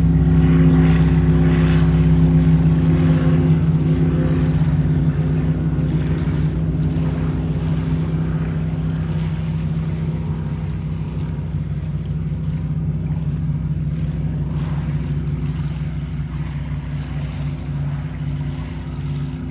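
Large motorboat's engine running steadily on the lake, a low drone that slowly grows fainter as the boat moves away.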